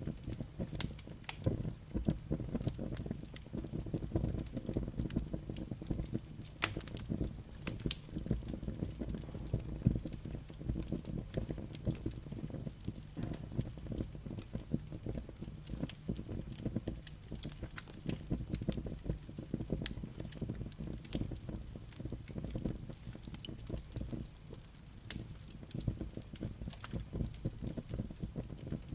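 Wood fire burning in a fireplace: a steady low rumble of flames with frequent irregular crackles and sharp pops from the burning logs and embers.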